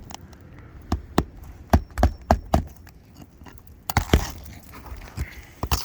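Hammer driving roofing nails into asphalt shingles: a quick run of about six sharp blows, then a pair of blows and two more near the end.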